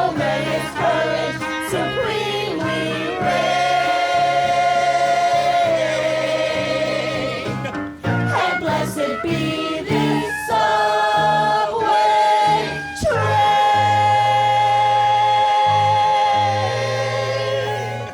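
Song from a live stage musical: several voices singing together in long held notes over an instrumental accompaniment with a bass line, breaking off briefly about eight seconds in and again around thirteen seconds before a final long held note.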